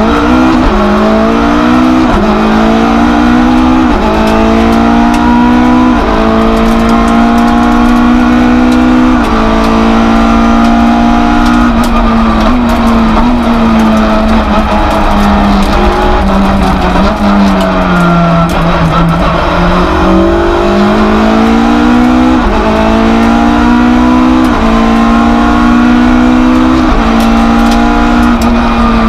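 Citroën Saxo F2000 rally car's four-cylinder engine, heard from inside the cabin, revving hard and climbing through the gears with a shift every second or two. About two-thirds through the revs drop low for a moment, then it pulls up through the gears again.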